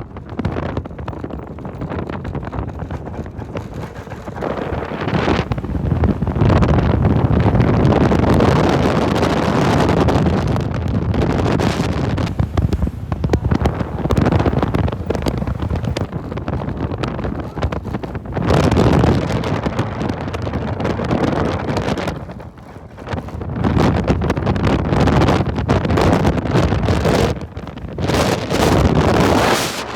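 Heavy wind buffeting the microphone over the noise of a pickup truck driving off-road, surging and dropping every few seconds.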